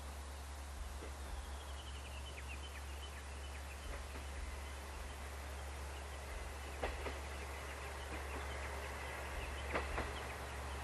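KiHa 120 diesel railcar approaching: a low steady hum that grows slightly louder, with a few sharp clicks of wheels on the rails in the second half. A bird gives a short descending run of chirps about two seconds in.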